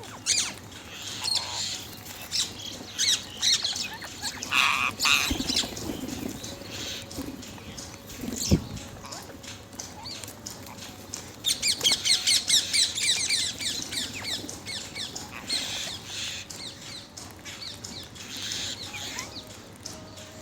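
Parrot squawking and chirping in short calls, with a fast run of repeated chirps about twelve seconds in.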